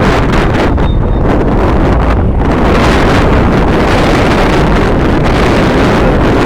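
Loud, steady wind rumble on the microphone, with the running noise of a departing train, hauled by a Hitachi-built E-1250-class electric locomotive, mixed in beneath it.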